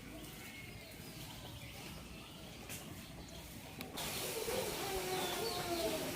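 Birds calling outdoors: scattered faint chirps, then a sudden jump to louder, busier bird calls about four seconds in.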